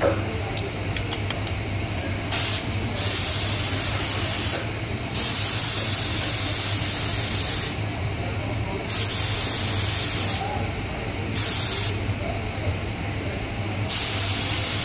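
Compressed air hissing in about six bursts of one to three seconds each, starting and stopping abruptly, over a steady low hum.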